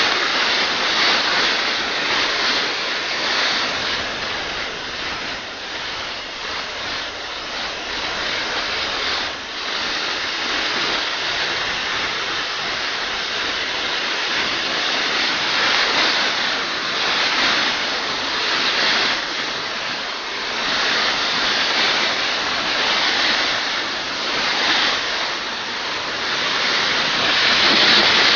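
A steady rushing hiss that swells and eases a little, with no speech.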